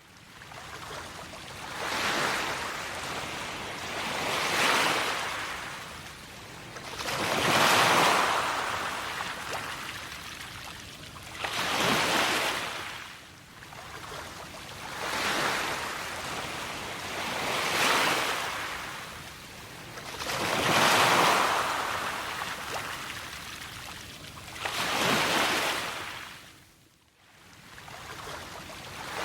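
Waves breaking and washing up, a swell of rushing water about every three seconds, eight times in all, dropping away briefly near the end.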